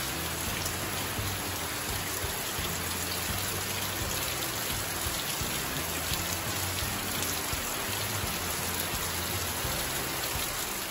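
Steady rain falling on a concrete yard and potted plants. Soft music with low, changing notes runs underneath.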